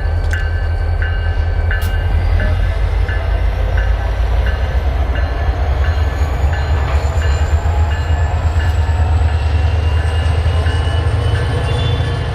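A train rolling past, its wheels clicking over rail joints about twice a second over a steady low rumble, with a faint high whine slowly rising in pitch.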